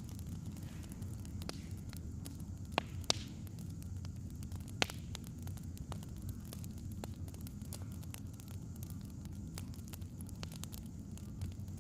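Wood fire crackling: a steady low rumble with many small snaps and a few louder pops about three and five seconds in.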